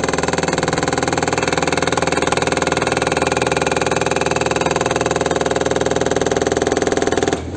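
An engine running steadily at a constant speed, stopping suddenly near the end.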